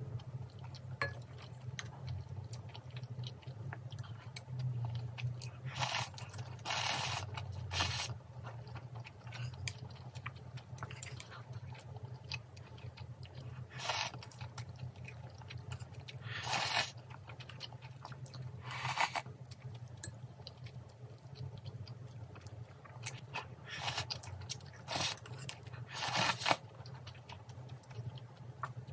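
Crunchy food bitten and chewed close to the microphone: about nine separate crisp crunches at irregular intervals, over a steady low hum.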